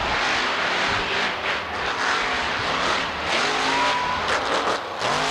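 Blown, injected monster truck engines running hard under a dense rushing noise, their pitch climbing and dropping several times.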